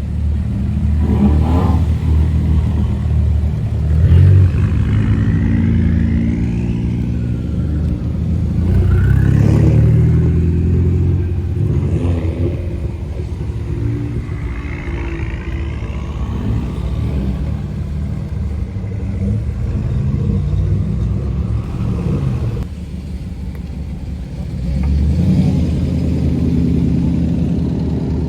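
Engines of modified cars running loudly, revved up and down again and again. One swells louder near the end.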